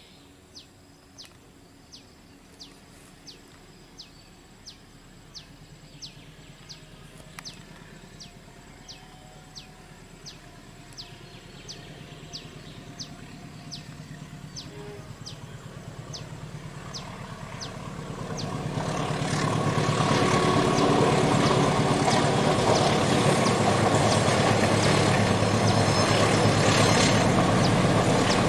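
A diesel locomotive hauling a passenger train approaches. Its engine and the running noise of the train build up over several seconds, then run loud and steady for the last part. Before it grows loud, a faint regular chirp comes about one and a half times a second.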